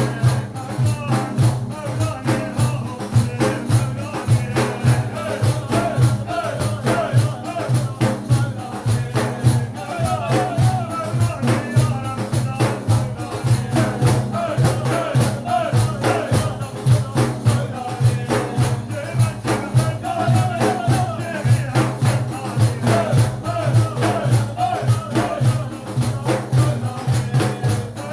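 Sufi madih, devotional praise singing, over a steady rhythm of jingling hand percussion.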